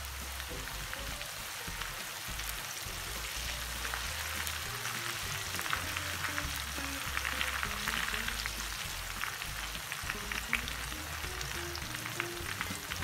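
Gram-flour sev deep-frying in hot oil: a steady crackling sizzle full of fine pops from the vigorously bubbling oil, as a wire skimmer is worked through the strands.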